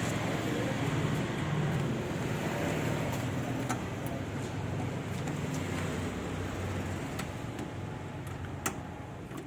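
A motor vehicle's engine running steadily and slowly fading, with a few sharp clicks.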